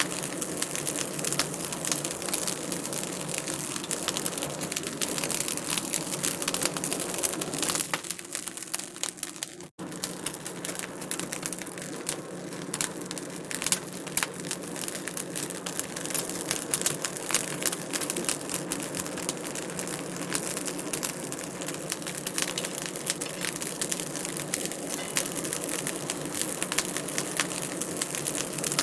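Wood fire in a fireplace crackling steadily, a dense run of small pops and snaps over a soft hiss, with a brief dip and a moment of silence about ten seconds in.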